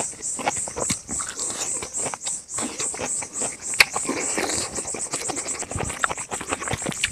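Close-miked chewing and lip-smacking of someone eating rice by hand, with one sharper click near the middle. Behind it an insect chirps in a steady high pulse, about four times a second.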